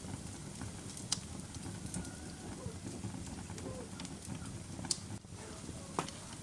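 Wood fire crackling in a fireplace: a steady low rumble of the flames, with three sharp pops, one about a second in and two more near the end.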